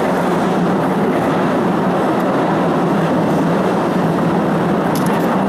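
Postojna Cave tourist train running steadily along its track, heard from an open carriage: a constant running noise with a low steady hum underneath.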